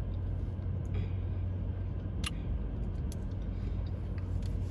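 Steady low rumble of a car engine idling, heard from inside the car, with a light tick about two seconds in.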